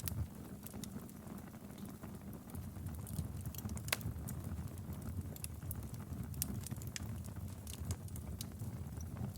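Fireplace fire crackling: a steady low rumble of flames with irregular sharp pops and snaps, the loudest about four seconds in.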